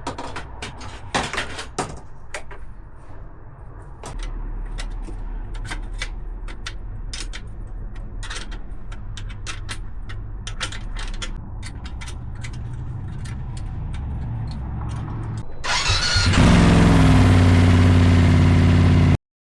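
BMW F850GS Adventure's parallel-twin engine, running through a straight-through link pipe in place of the resonator box, starting up and settling into a steady idle with light ticks over it. About sixteen seconds in it is revved, much louder, and the sound cuts off suddenly.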